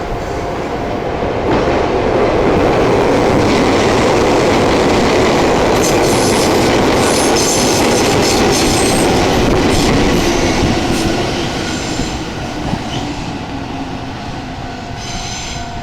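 Shintetsu line electric train running along the tracks at the station: a loud rumble of wheels on rail that builds over the first two seconds, with high wheel squeals in the middle, then fades away in the last few seconds.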